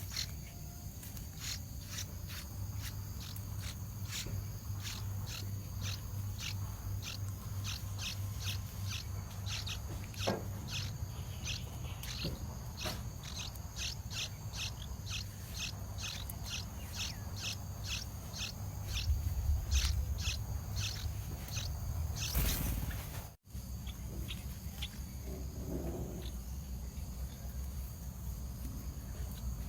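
Steady high insect drone with a run of short, high chirps repeated about twice a second, which stop a little over 20 seconds in. A loud rustling noise follows briefly near the end.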